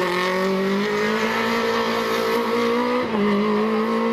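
Rally car engine accelerating hard, its pitch climbing steadily, then dropping sharply on an upshift about three seconds in before it starts to climb again.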